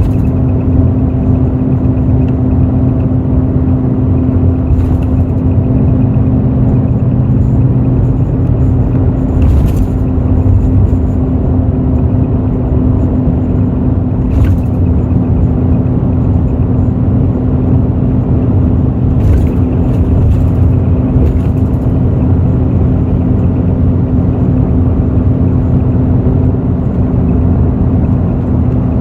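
Hino J08E-VD inline-six diesel engine of a bus running steadily at constant revs, heard from inside the cabin with a deep rumble. A few brief clicks or rattles come and go over it.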